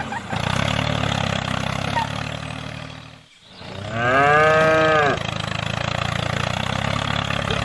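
Tractor engine running steadily, dipping away about three seconds in. Then a cow moos once, loudly, for about a second, and the engine sound returns.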